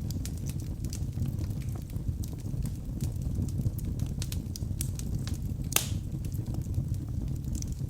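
Wood fire burning in a fireplace: a steady low rumble of flames with irregular sharp crackles and pops from the burning logs, one louder pop about six seconds in.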